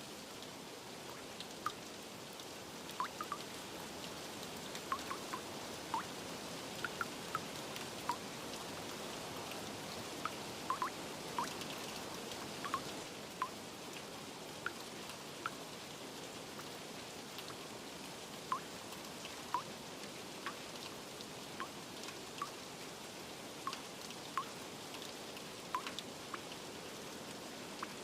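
Steady rain hiss with scattered drips plinking at irregular intervals.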